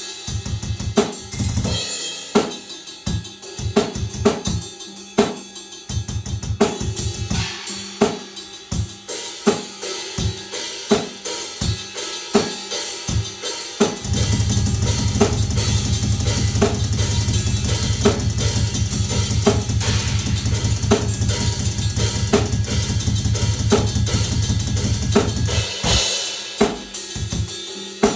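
Drum kit being played: steady beats of separate drum and cymbal hits, then, about halfway through, a stretch of very fast continuous low drum hits lasting about twelve seconds before the separate beats return.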